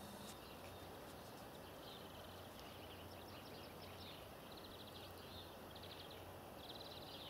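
Faint chirping of small birds in quick runs of short notes, starting about two seconds in and recurring several times, over a steady low hum.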